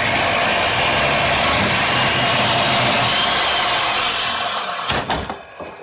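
Power tool cutting into a block of wood: a loud, steady noise that dies away about five seconds in.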